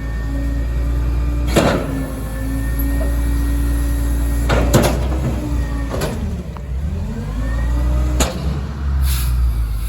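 Kenworth rear-loader garbage truck with a Heil packer body working its hydraulic compactor on bulk trash. The diesel engine runs raised under load with a held whine that sags about six seconds in and climbs back. Sharp cracks and bangs come four times as the trash breaks, with a brief hiss near the end.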